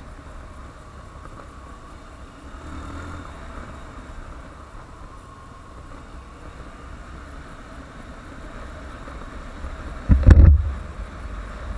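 Honda CBF150 motorcycle riding, its engine running steadily under wind noise on the microphone, with one loud low thump about ten seconds in.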